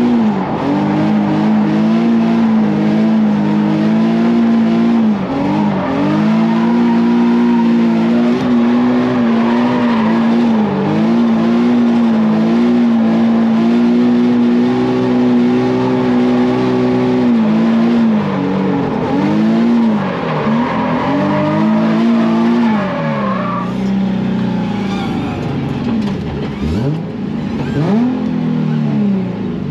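Nissan 350Z's V6 engine held at high, steady revs during a drift run, with tire squeal. The revs drop briefly and climb back several times, and settle lower near the end.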